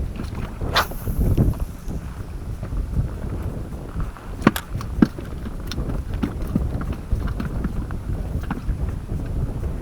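Wind buffeting the microphone as a steady low rumble, with scattered light clicks and knocks; two sharp clicks about half a second apart come halfway through.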